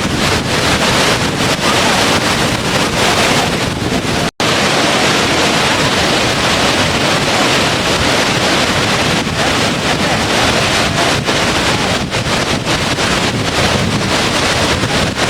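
Steady, dense rushing of a waterfall, with one split-second dropout a little over four seconds in.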